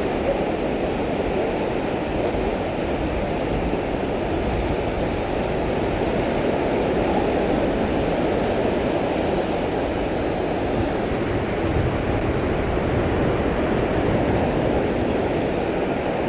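Steady wash of ocean surf and wind: an even rushing noise with a low rumble underneath.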